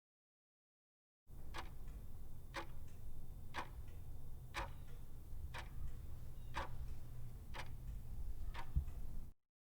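Eight sharp, evenly spaced ticks, about one a second, over a steady low rumble; it starts about a second in and cuts off suddenly near the end.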